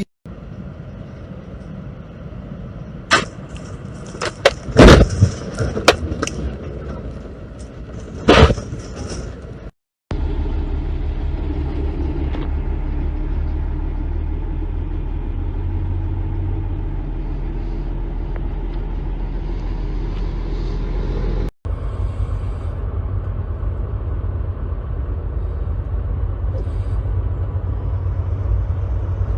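Vehicle noise from dashcam clips. Several sharp, loud bangs come in the first few seconds, the loudest about five seconds in, followed by a steady low road and engine rumble.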